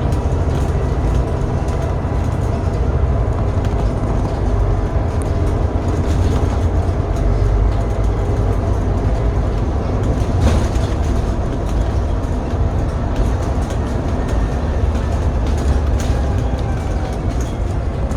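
City bus driven hard at speed: a heavy, steady low engine rumble with a constant whine over it. A single sharp knock about ten seconds in.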